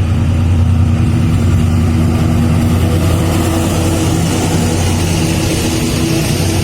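Diesel locomotive engine running close by: a loud, steady low drone whose pitch lines shift slightly midway, with a hiss building toward the end.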